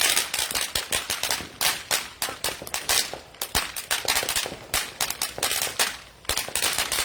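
Consumer fireworks going off in a rapid, irregular string of sharp cracks and pops, several a second.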